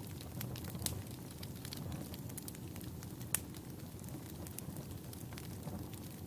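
Wood fire burning in a fireplace: a steady low rumble of the flames under irregular crackles and pops from the logs, with one sharper pop a little past halfway.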